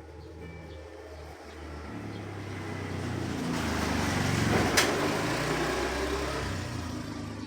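A motor vehicle's engine passes close by, growing louder to a peak about halfway through and then fading. A single sharp knock sounds at the loudest point.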